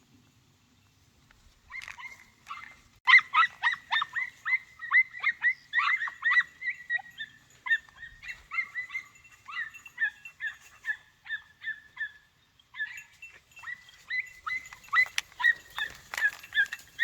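Podenco puppies giving tongue on a scent trail, the hunting cry called 'latido': a fast series of short, high-pitched yelps, about three a second, starting about two seconds in, with one short pause near the end.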